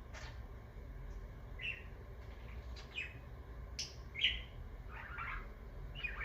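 Pet budgerigar (parakeet) giving a string of short, high chirps about once a second, then a brief warbling chatter near the end.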